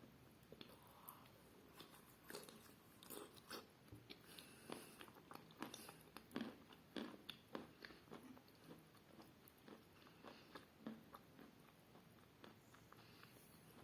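Close-up chewing and crunching of eating chalk: a run of small irregular crunches, thickest in the middle and thinning out towards the end. The crunch is muffled and short.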